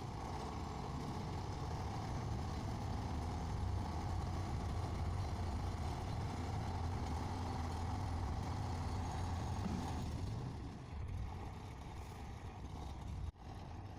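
Heavy diesel vehicle engine running steadily, dropping to a lower level about ten seconds in, with a brief break in the sound near the end.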